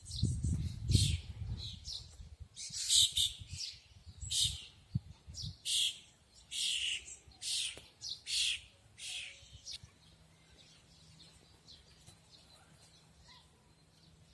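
A songbird chirping in short, repeated high notes, about one every second, loudest for several seconds and then dying down to faint calls near the end. A low rumble runs under the first few seconds.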